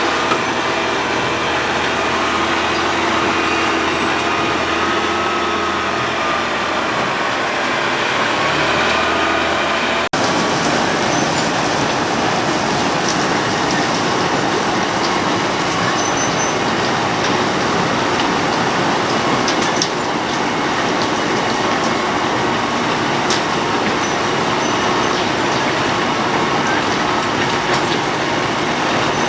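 Road planer at work, its diesel engine running and milling drum grinding up the road surface in a loud, steady din. About ten seconds in the sound breaks off for an instant and returns as a rougher, denser grinding with scattered ticks.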